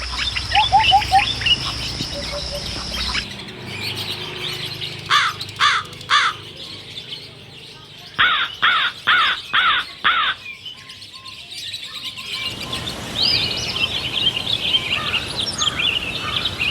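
Caged birds calling and chirping, with several kinds of bird heard in turn. Three loud repeated calls come about five seconds in, then a run of five about eight seconds in, and a dense mix of twittering near the end.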